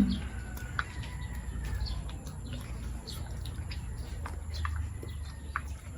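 Scattered short bird chirps over a steady low background rumble.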